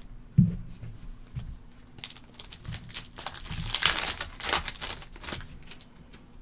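A foil trading-card pack being torn open and its wrapper crinkled, a dense crackling that builds and peaks around the middle. A soft knock comes about half a second in.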